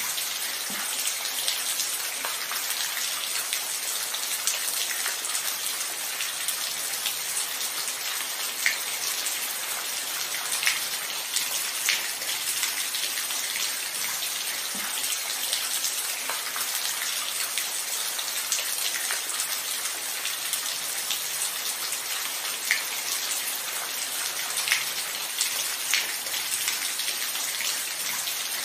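Steady rain falling: an even hiss with scattered louder drops ticking here and there.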